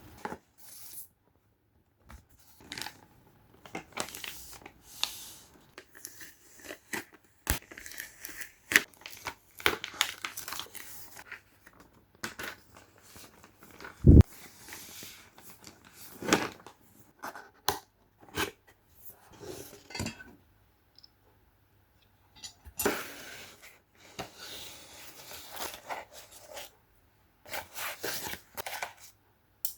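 Wrapping being torn and crumpled in irregular rustling bursts, with one loud knock about fourteen seconds in.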